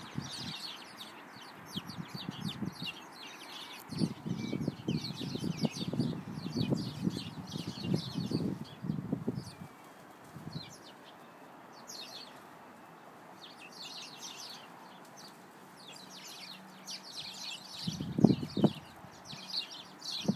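Small birds chirping and singing in a busy chatter of short, high notes, with bouts of low rumble from about four to nine seconds in and again near the end.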